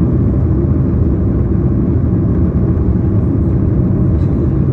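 Steady low rumble of a Boeing 737-800 heard from inside the passenger cabin, even throughout with no distinct events.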